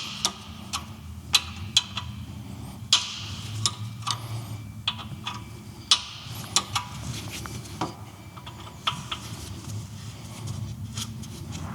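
Irregular sharp clicks and taps of hand tools on metal, as bolts are worked off a motorcycle's frame.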